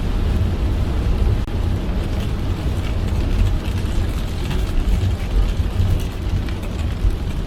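Car driving through heavy rain: a steady low rumble of tyres on a wet road, with a hiss and scattered ticks of rain hitting the car.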